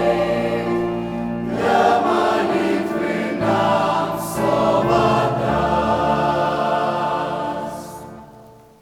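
A church choir singing the closing phrases of a hymn in sustained chords. The final chord fades away near the end.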